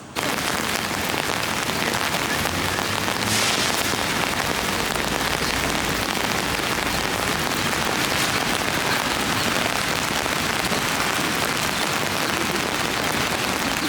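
Steady heavy rain falling and pattering on hard surfaces, an even hiss that starts abruptly and holds at one level.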